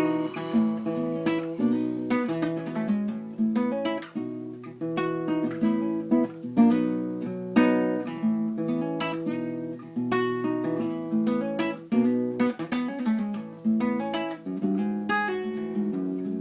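Guitar with a capo, strummed and picked through a chord progression, each chord ringing on between strokes.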